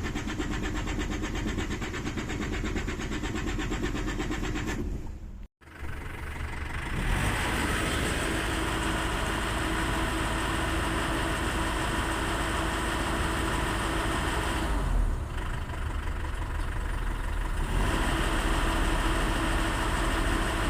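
Diesel engine being cranked with a regular rhythm for about five seconds, then, after a short break, running steadily. The hard start is the symptom of a failing high-pressure fuel pump.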